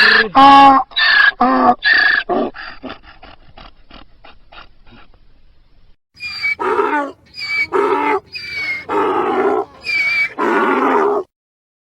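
Donkey braying: a run of loud hee-haw calls that dies away into fainter, quicker gasps. After a short break another bray starts, its high wheezing notes and lower calls alternating, and it cuts off sharply shortly before the end.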